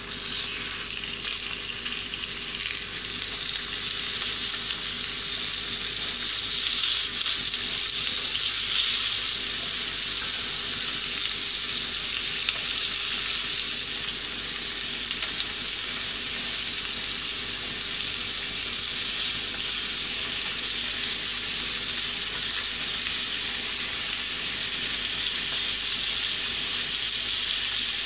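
Gyoza frying in oil in a frying pan: a steady crackling sizzle as their bottoms crisp and begin to char.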